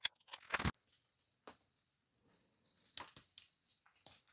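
Insects chirping in a steady, high, pulsing drone, with a few sharp clicks and knocks over it.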